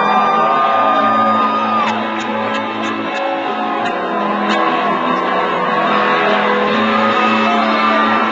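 Live country band playing an instrumental passage, with electric guitar over sustained chords, and shouts and whoops from the crowd.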